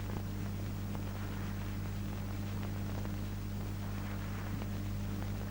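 Steady low electrical hum with an even hiss, the background noise of an old film soundtrack between lines of narration.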